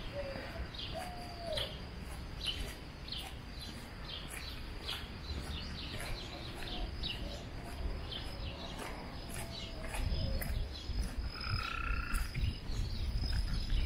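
Many birds chirping in trees, a steady stream of short, quick downward-sliding calls with a few lower calls near the start, over a low steady rumble that grows louder toward the end. About eleven seconds in, a steady tone sounds for about a second.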